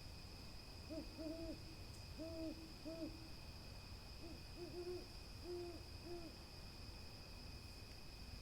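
An animal giving about nine short, low, pitched calls, single and in pairs, over about five seconds, with a faint steady high whine underneath.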